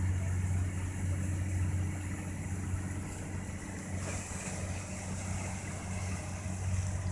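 Steady low drone of a boat's engine, a constant hum with a faint hiss over it.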